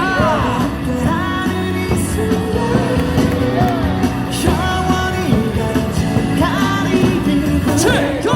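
Loud cheering music over a baseball stadium's speakers, with a crowd singing along and yelling.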